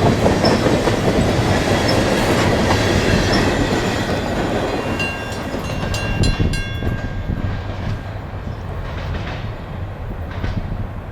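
Freight train rolling past, its cars' wheels clattering over the rails. The sound fades steadily as the train moves away, with a brief thin squeal about halfway through.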